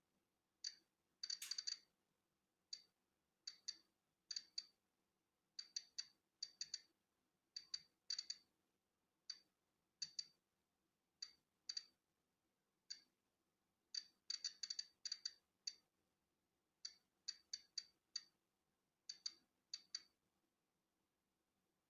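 Polon EKO-C digital Geiger counter clicking at irregular, random intervals, roughly two clicks a second and sometimes several in quick succession. Each click marks a particle counted from natural background radiation.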